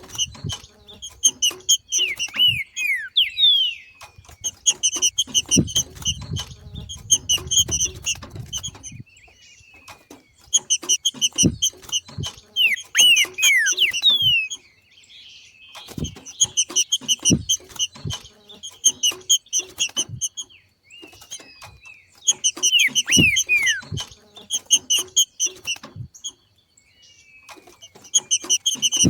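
Green-winged saltator (trinca-ferro) giving its 'macheando' call: bouts of rapid, high-pitched chattering notes a few seconds long, several ending in quick downward-sliding whistles, repeated about five times with short gaps. Scattered low thumps run underneath.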